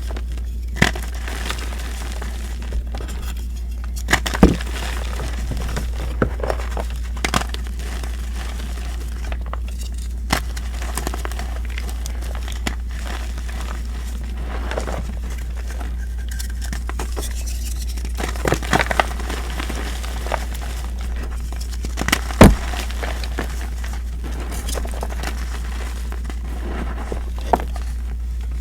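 Reformed gym chalk being crushed and crumbled by hand: scattered crunchy, gritty crackles with a few sharper snaps, the loudest about 22 seconds in.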